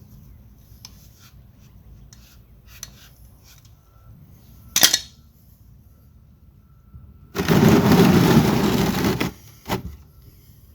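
Hand tools clinking and clicking against metal while pliers work a hose clamp, with one sharp metallic click about five seconds in. Near the end a loud noisy rush lasts about two seconds.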